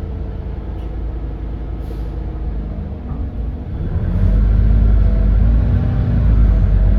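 The GX12P natural-gas engine of a Smart 110G city bus drones steadily, heard from the cabin. About four seconds in it gets markedly louder and deeper as it works harder under load.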